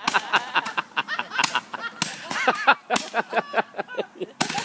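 Fireworks going off in a rapid, irregular run of sharp cracks, mixed with many short pitched tones that bend up and down.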